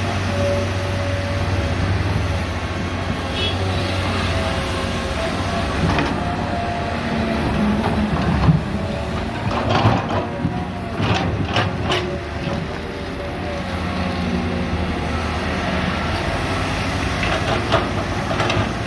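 Two six-cylinder diesel excavators running under digging load. Several sharp clanks about halfway through, from steel buckets striking rock.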